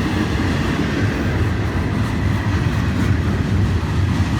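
Florida East Coast Railway intermodal freight train's container well cars rolling past, a loud, steady rumble of steel wheels on the rails.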